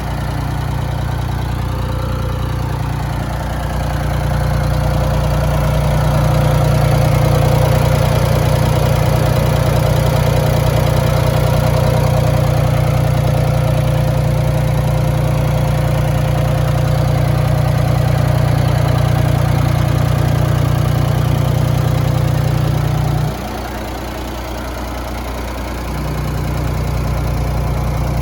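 Ford 3000 tractor's gasoline engine running steadily at low speed, getting louder about four seconds in, dropping away suddenly near the 23-second mark and coming back up a few seconds later.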